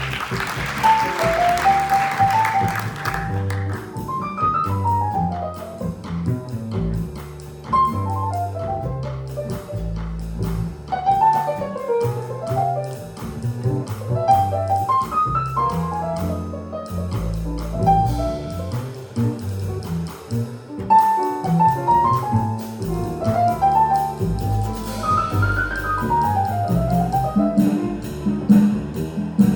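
Small jazz combo playing live: a double bass walks steadily underneath quick, running melodic lines, with a cymbal crash at the start.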